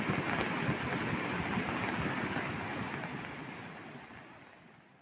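Steady rushing water noise, fading out over the last couple of seconds.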